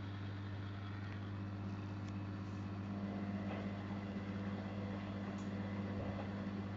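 Zanussi Jetsystem Turbodry ZWD 1000 washing machine running with a steady low hum that grows a little louder about three seconds in.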